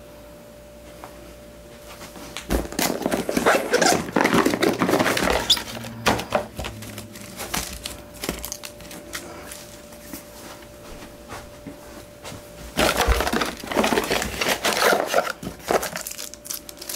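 Camera box being unpacked by hand: cardboard and packaging crinkling and rustling in two busy spells, the first starting about two and a half seconds in and the second about thirteen seconds in, over a faint steady hum.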